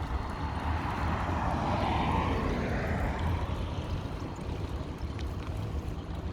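A passing motor vehicle, its noise swelling to a peak about two seconds in and then fading, over a steady low rumble of wind on the microphone.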